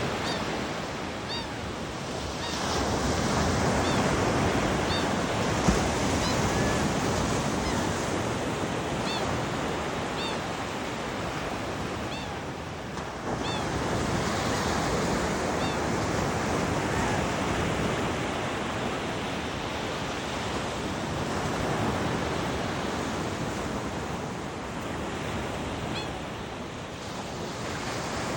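Steady rushing outdoor noise that swells and eases, with faint short high chirps from small birds every second or so during the first half and once more near the end, in keeping with one bird begging food from the other.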